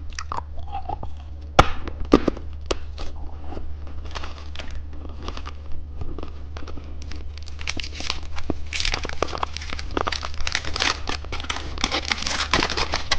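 Crinkling and tearing of a plastic candy wrapper as a lollipop is unwrapped, with scattered sharp clicks. The crinkling grows busier and louder in the last few seconds, over a steady low hum.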